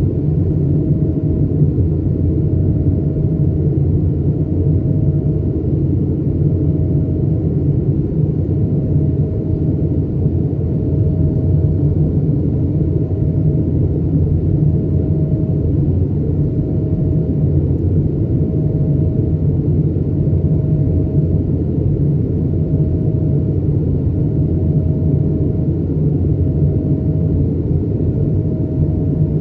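Steady low cabin drone of an Airbus A220-300, from its Pratt & Whitney PW1500G geared turbofan engines and airflow past the fuselage. A faint higher tone in it swells and fades about every two seconds.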